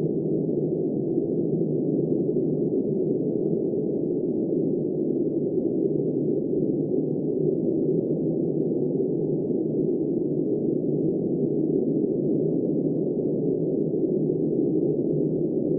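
Blizzard wind blowing steadily, a dull, muffled rushing with no high hiss and no gusts or breaks.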